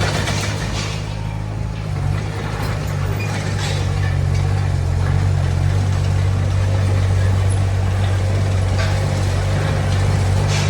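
Diesel engine of a D20 bulldozer running steadily, with a few brief rattles.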